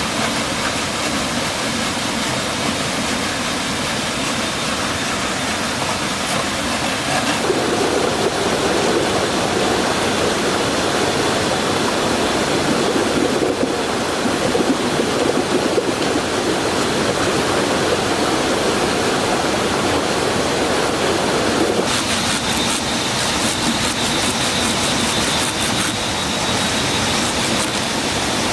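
Rushing water of a mountain stream, a steady dense rush that changes tone about seven seconds in and again about twenty-two seconds in.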